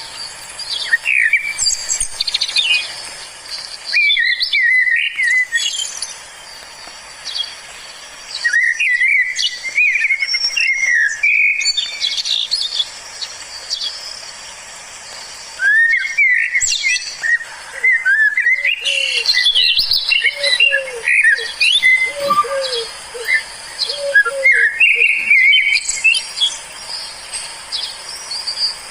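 Wild songbirds singing in bouts of quick, varied chirps and whistles, with gaps of a few seconds between bouts. In the later part a run of short, lower slurred notes joins the song.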